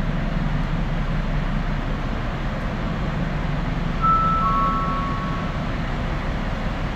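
Work train rumbling steadily as it approaches slowly through the tunnel. About four seconds in, a two-note steady tone sounds for about a second and a half.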